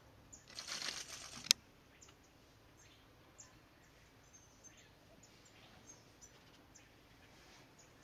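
A bird's wings flutter for about a second, ending in a sharp click, then faint, short, high chirps from small birds follow.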